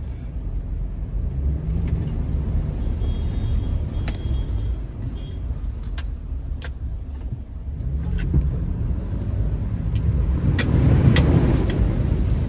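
Truck engine running as it drives along a flooded street, its pitch rising and easing off a couple of times with the throttle. A few scattered clicks, and a louder rushing swell about ten seconds in.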